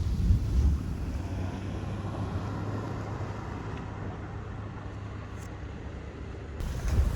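Steady low rumble of a car driving, road and wind noise, with louder low gusts buffeting the microphone about half a second in and again near the end.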